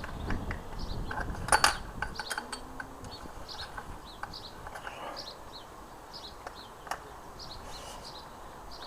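Metal clicks and knocks as a motorcycle fork cap is worked onto the top of the fork tube to start its thread, the loudest about one and a half seconds in, then fewer. Birds chirp over and over.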